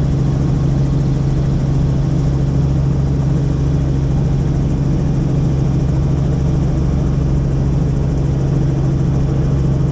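Helicopter in flight heard from inside the cabin: a loud, steady drone of rotor and turbine with a strong low hum that never changes.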